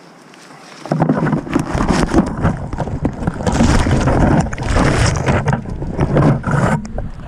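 Loud gusty wind buffeting the microphone, coming in suddenly about a second in and rising and falling in irregular gusts.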